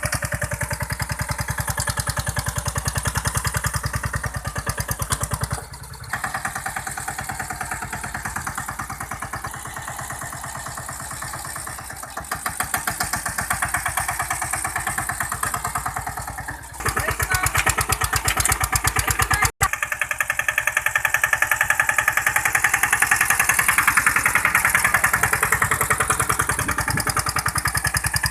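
Three-wheel mini tractor's engine running with a fast, even beat. The sound changes abruptly a few times and cuts out for an instant about two-thirds of the way through.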